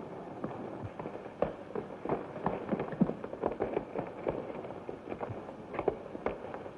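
A rapid, irregular clatter of short knocks, several a second, over the hiss of an old film soundtrack.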